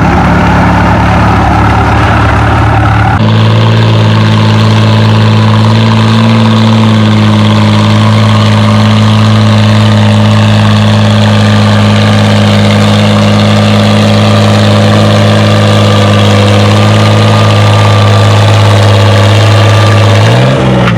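Oliver 77 tractor engine running at a steady, heavy load as it pulls the sled, then dropping in pitch just before the end as the pull is stopped. The first three seconds carry a different engine sound that cuts off abruptly.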